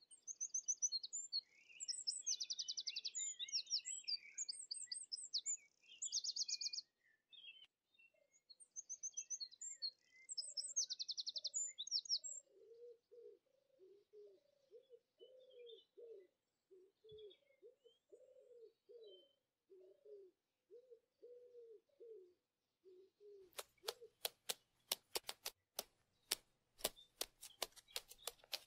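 Birdsong: high, fast trills and chirps for the first dozen seconds. Then a run of low calls repeating about once a second. From about 23 seconds in, a rapid series of sharp clicks.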